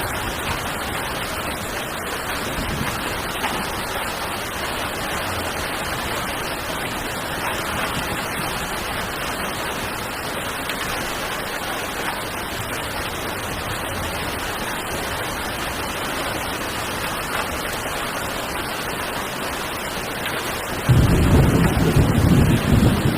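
Heavy rain falling steadily. Near the end a sudden, louder low rumble comes in on top of the rain.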